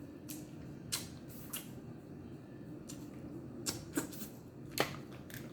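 Snow crab shells being snapped and cracked during eating: a handful of sharp cracks and clicks, the loudest nearly five seconds in.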